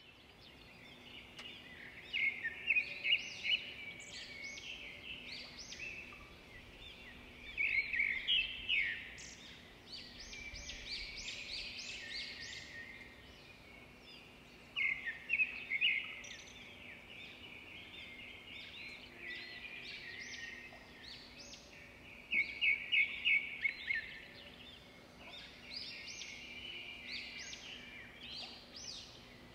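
Small songbirds chirping and trilling in phrases every few seconds, each a quick run of high notes, over a faint steady low hum.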